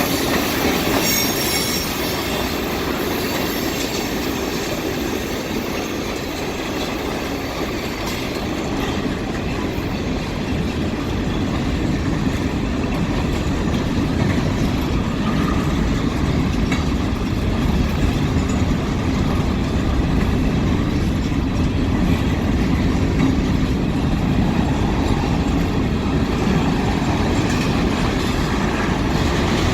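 Freight cars of a Union Pacific manifest train rolling past, a steady rumble of steel wheels on rail with a thin, high wheel squeal in the first couple of seconds.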